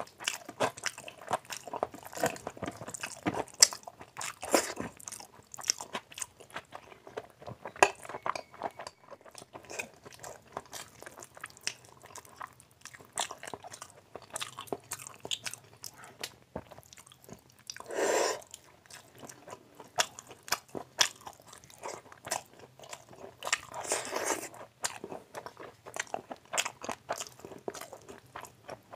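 Close-miked eating by hand: wet chewing and lip-smacking of mouthfuls of rice and fatty mutton curry, made up of many sharp mouth clicks and short bursts. One louder half-second rush of sound comes a little past the middle.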